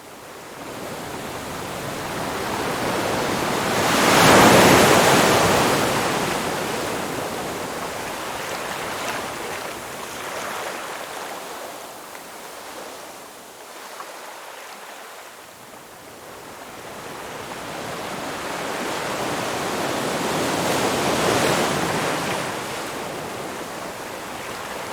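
Ocean waves breaking on a shore. One wave crashes loudly about four seconds in and washes back, and a second, slower swell builds and breaks near the end.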